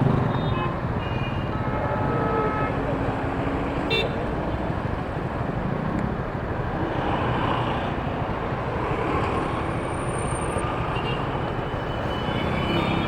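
Road traffic noise in a jam, with engines running and vehicle horns honking several times, most around the start and again in the middle.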